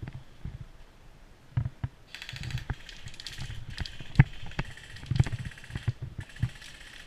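Airsoft electric gun (AEG) firing on full auto: a rapid high-pitched mechanical chatter, one long burst of nearly four seconds and a short burst near the end. Footsteps thud underneath.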